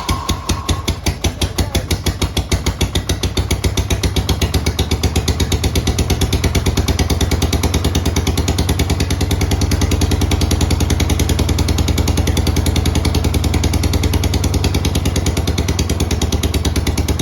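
1983 Harley-Davidson FLT Tour Glide's Shovelhead V-twin idling on half choke just after a cold start, with a lumpy pulse-by-pulse beat. It grows louder and steadier over the first several seconds and then holds an even idle.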